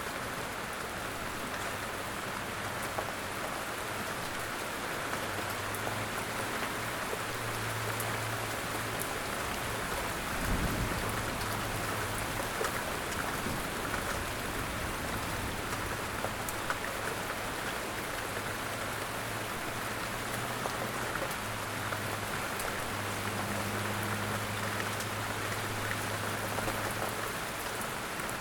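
Steady rain falling, with scattered louder drop ticks on a surface. A brief low thump is heard about ten seconds in.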